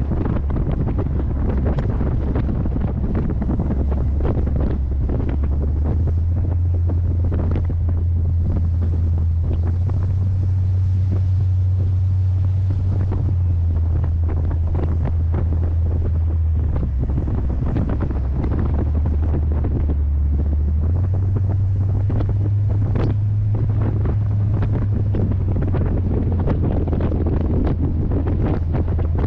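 Heavy wind buffeting the microphone of a moving C3 Corvette, over the low drone of its small-block 350 V8. The drone steps up in pitch about six seconds in and again near two-thirds of the way through.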